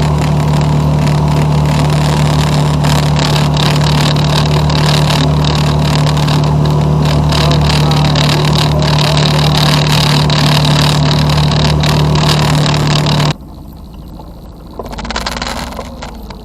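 A boat motor running at a steady speed, a loud even drone with one low hum, cutting off abruptly about 13 seconds in.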